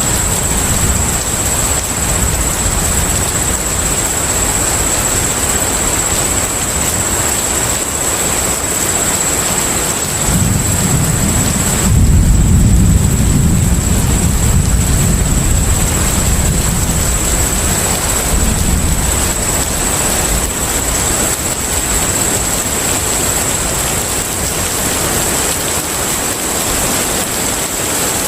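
Container ship at sea ambience: a steady, loud wash of water and wind noise with a low rumble underneath, the rumble swelling for several seconds about ten seconds in. A thin steady high tone runs over it.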